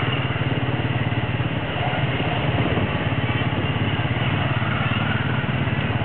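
Small motorcycle engine pulling a tuk-tuk carriage, running steadily at cruising speed with a low pulsing drone, mixed with road and traffic noise, heard from the carriage's passenger seat.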